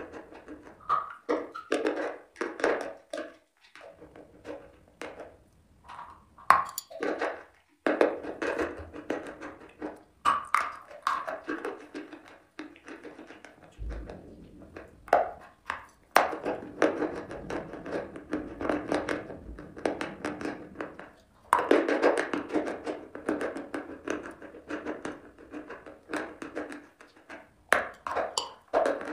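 Close-up crunching and chewing of chunks of dry chalk: stretches of dense, rapid crackling broken by short pauses, with a few louder sharp snaps as pieces are bitten off.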